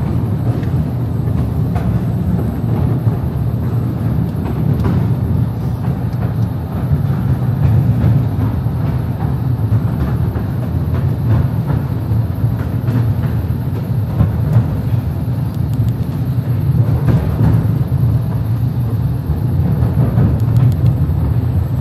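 Small electric Mail Rail passenger train running through its narrow underground tunnel, heard from on board: a steady low rumble with occasional faint clicks.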